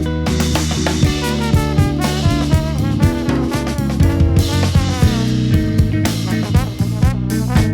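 A jazz-funk octet playing: drum kit keeping a steady beat under electric bass, with horn lines from saxophone, trumpets and trombones moving above.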